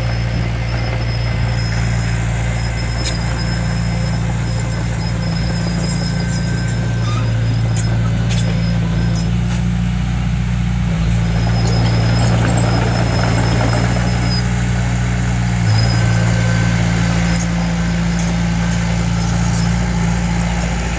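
Heavy-equipment diesel engine running steadily under light load, with a thin high squeal that comes and goes over it.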